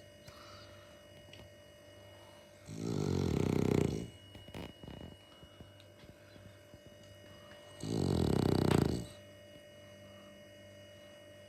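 Bulldog snoring in sleep: two loud, low-pitched snores about five seconds apart, each lasting a little over a second, with quiet between them.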